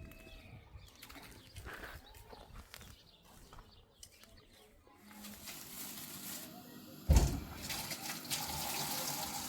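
Faint bird calls, then from about halfway a steady rush of running water starts, with a loud thump about seven seconds in, after which the water runs louder.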